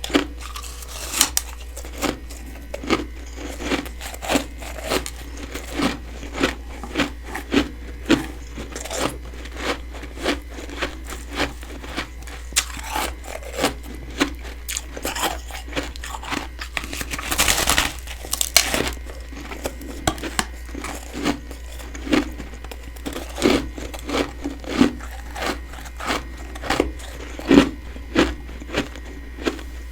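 Freezer frost being chewed close to the microphone: a steady run of crisp crunches, about one and a half a second, with a longer, louder crunch a little past the middle.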